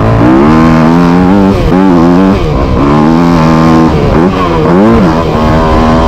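Motocross dirt bike engine running hard under throttle. The pitch climbs and holds, drops off briefly near the second and fourth seconds, then picks up again, as the rider gets off and back on the gas.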